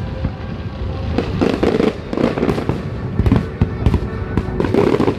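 Aerial fireworks bursting in quick succession: a dense run of sharp bangs and crackles over a continuous low rumble.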